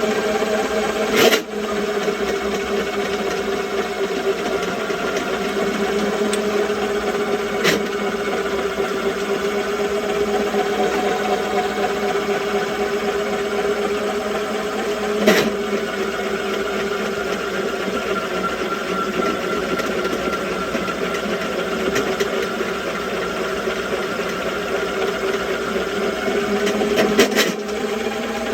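Spartan 300 sectional drain cleaning machine running steadily, its motor spinning the cable in a sewer line, with four short sharp clicks spread through. The cable is working against a clog of grease and kasha that it is not clearing.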